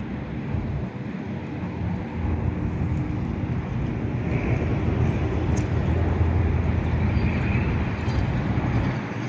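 Jet airliner's engine rumble, growing steadily louder as the aircraft approaches.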